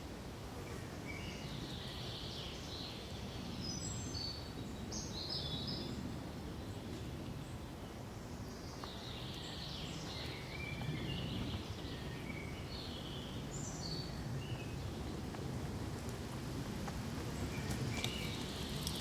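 Songbirds chirping in two runs of short high notes, one early and one around the middle, over a steady low rush of background noise.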